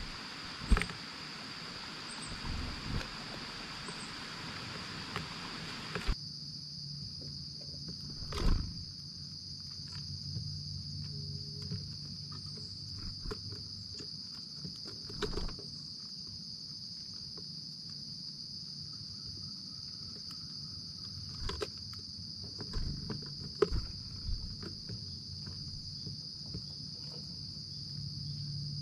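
Steady high-pitched chorus of crickets, with scattered sharp clicks and a few louder knocks. A hiss underneath stops suddenly about six seconds in.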